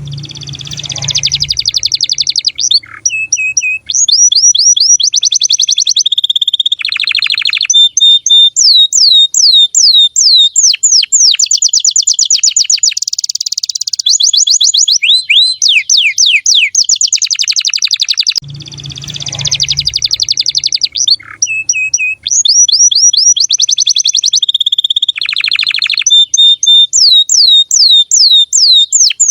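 Female domestic canary singing a long, loud song of rapid trills and quick rising and falling whistled notes; the same song sequence starts over about two-thirds of the way through, as if the recording loops.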